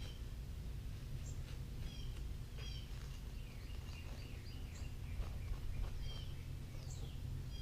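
Birds chirping over and over, short high calls and quick falling notes, over a steady low hum.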